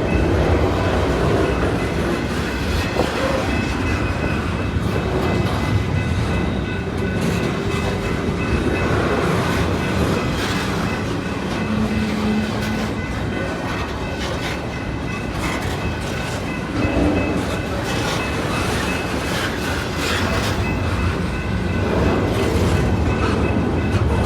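Cars of a CPKC intermodal freight train rolling past at speed, a steady rumble broken by irregular clicks of the wheels over the rail joints, with a faint steady high ring from the wheels.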